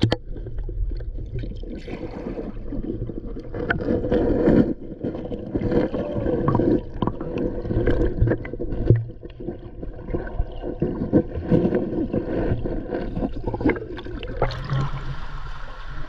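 Stream water sloshing and bubbling, heard muffled through a waterproof camera case being dipped in and out of the water, with scattered knocks of handling against the case.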